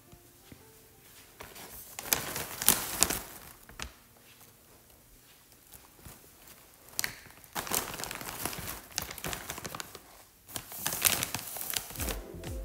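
A plastic chip bag crinkling and rustling as it is handled, in three bouts of a second or more each.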